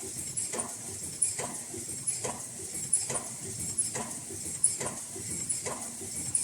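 Automatic N95/FFP2 mask-making machine running at speed. A sharp mechanical clack repeats a little more than once a second, often as a double knock, over a steady high hiss.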